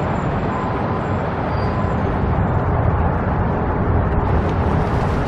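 Strong wind buffeting the microphone: a steady low rumble with no other clear event.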